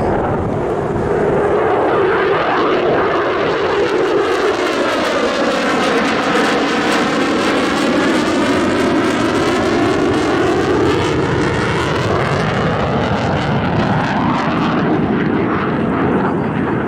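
An airplane's engines running loudly and steadily as it flies past. A sweeping, phasing tone dips and then climbs again around the middle as the plane passes.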